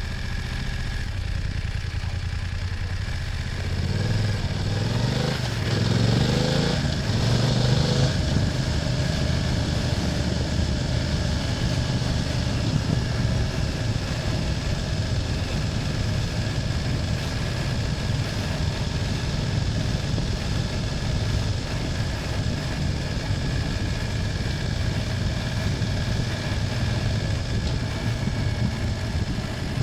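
BMW F800GS parallel-twin engine running on the road, rising and falling in pitch a few seconds in as it revs, then holding a steady note at cruising speed.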